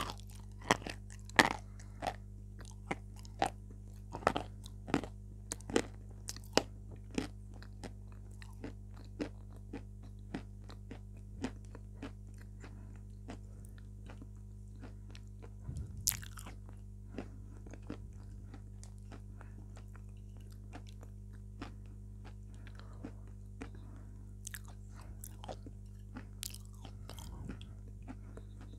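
Close-miked crunching and chewing of white chalk pieces dipped in wet clay: sharp crunches and mouth clicks, coming thick and fast for the first dozen seconds, then sparser, over a steady low hum.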